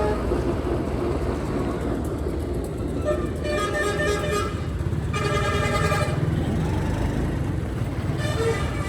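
Vehicle horn honking over the steady low rumble of a motorcycle engine in street traffic. There is one honk about three and a half seconds in, another at about five seconds, each about a second long, and a third starting near the end.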